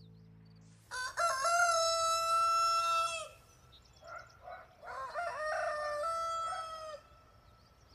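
A rooster crowing twice, each a long call ending on a held note.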